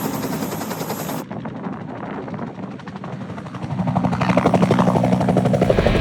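Bell UH-1 Huey helicopter's rotor blades beating in a steady, rapid rhythm, growing louder from about three and a half seconds in.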